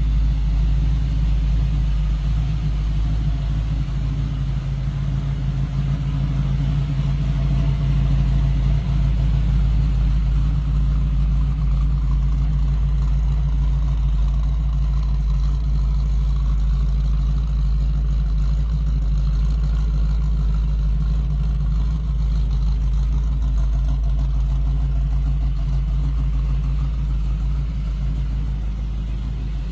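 1979 Chevrolet Camaro Z28's cammed 350 V8 running steadily at an even speed, with no revving.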